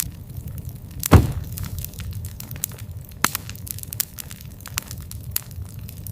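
Wood campfire crackling: many sharp pops and snaps over a low, steady rumble of burning, with one loud pop about a second in.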